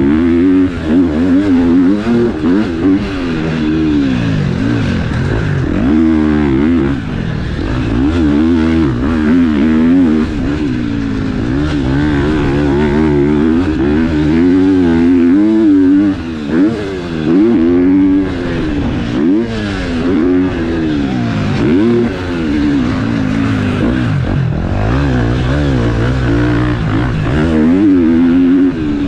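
KTM four-stroke motocross bike engine revving hard and backing off again and again, its pitch rising and falling every second or two as the throttle is worked on and off.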